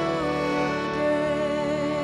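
Kirtan chant music: voices holding sung, wavering notes over steady sustained instrumental tones.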